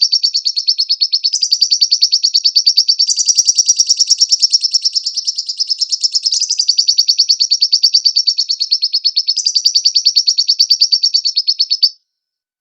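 Lovebird singing a long, fast chattering trill of high chirps, about ten a second, stepping up or down in pitch every few seconds, then cutting off sharply near the end.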